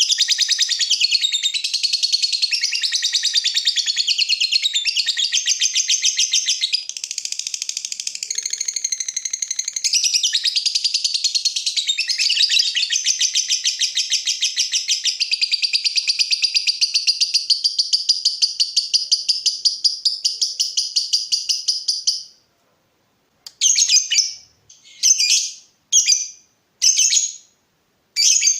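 Lovebird giving a long 'ngekek' trill: a rapid, fast-pulsed high chattering call held for about twenty seconds that breaks off abruptly. It is followed by a string of short chattering bursts about a second apart.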